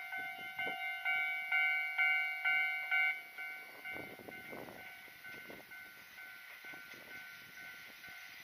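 Railway level-crossing warning bell ringing, a pitched ding about twice a second, loud for the first three seconds and then fainter. A short rumble rises around four seconds in.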